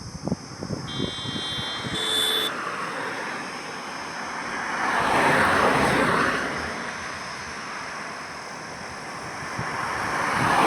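Road traffic: a vehicle passes, swelling to its loudest about five seconds in and fading, and another approaches near the end. A brief high-pitched tone sounds about a second or two in.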